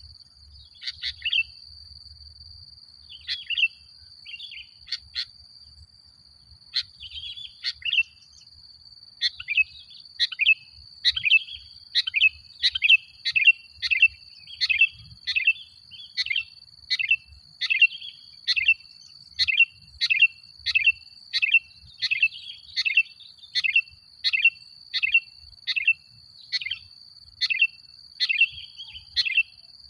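Male sooty-headed bulbul (kutilang) calling: a few scattered short chirps at first, then, from about a third of the way in, a steady run of sharp chirps at about two a second. A thin, steady high tone sounds underneath throughout.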